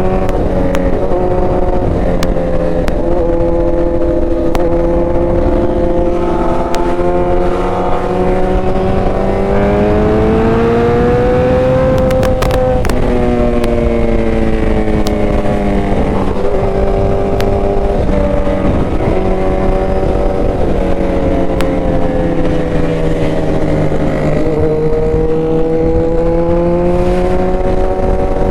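Motorcycle engine under way while riding: the engine note climbs slowly for about twelve seconds, drops sharply at a shift, then rises and falls gently, over a steady rush of wind.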